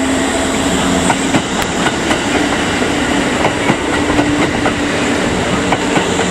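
Kintetsu train moving along the platform at close range, its wheels clicking over rail joints over a steady running noise, with a low hum that shifts in pitch.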